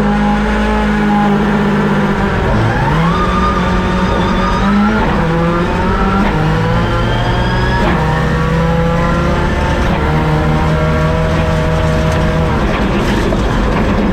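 Subaru WRX rally car's turbocharged engine pulling hard under load. Its revs climb and then drop back at each gear change, several times over.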